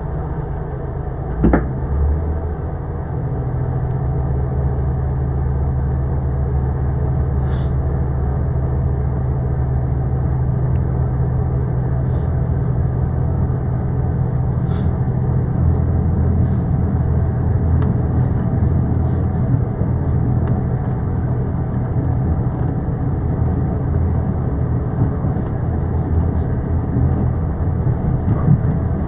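Inside an Irish Rail ICR diesel railcar under way: steady low engine drone and running rumble, with a single sharp knock about a second and a half in and faint ticks from the wheels and car body.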